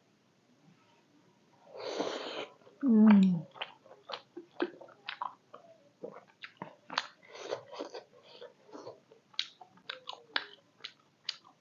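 Close-miked chewing of a beef momo: a run of short, wet mouth smacks and clicks from about three and a half seconds on. Before that, a breathy rush about two seconds in and a short low falling hum of voice, the loudest sound, just after it.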